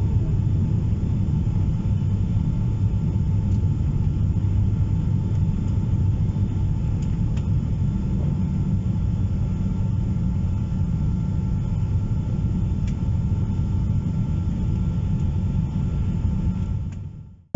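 Steady rumble of a Boeing 777-200 cabin on takeoff or climb-out: jet engine and airflow noise with a faint steady whine above it. It fades out just before the end.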